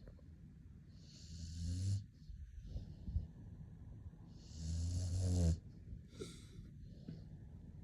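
A five-month-old pit bull puppy snoring in its sleep: two low, buzzing snores about a second long each, a little over three seconds apart, with quieter breaths in between.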